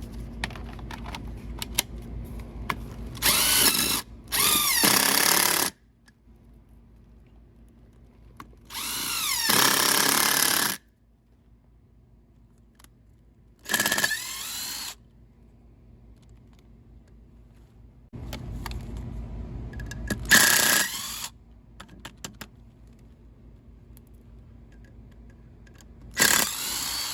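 Ridgid cordless power tool run in about six short bursts of one to three seconds, its motor pitch rising as it spins up and falling as it winds down, while screws are driven in. Small handling clicks come before the first burst.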